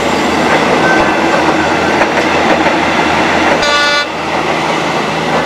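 Two Indonesian diesel multiple-unit trains passing each other, a steady loud rumble of engines and wheels on the track. About two-thirds of the way through, one of them gives a single short horn blast.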